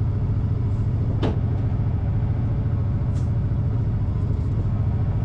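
A truck engine running steadily with a low, even rumble. There is a sharp click about a second in and a brief hiss about three seconds in.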